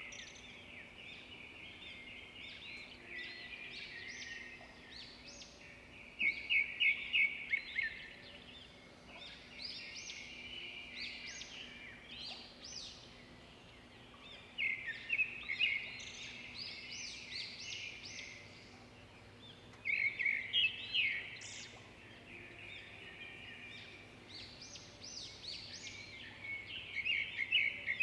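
Birdsong: a burst of rapid, high trilled notes about every seven seconds, with quieter chirping in between, over a faint steady hum.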